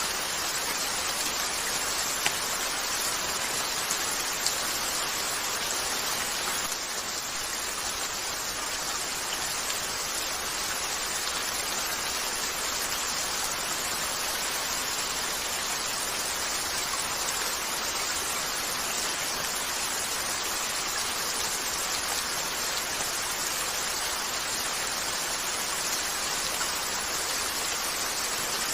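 Steady rain falling on a window pane, an even hiss, with a few sharp crackles from a wood fire in the first few seconds.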